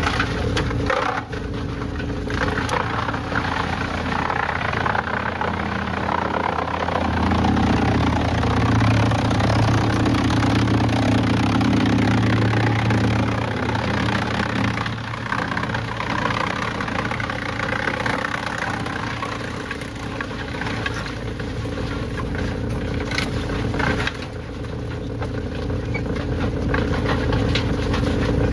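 Heavy engine-driven machinery running steadily with a clattering, grinding noise over it. Its low hum grows stronger from about seven seconds in and eases again around fifteen seconds.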